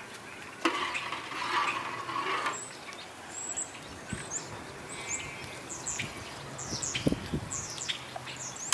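Small birds chirping in many short, high calls. A rough rustling or scraping noise comes in the first couple of seconds, with a few light clicks scattered through.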